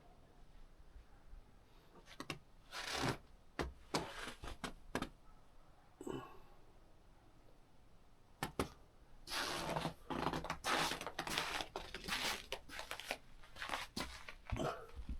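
Deep snow crunching in irregular bursts, sparse at first, then thick and fast through the second half.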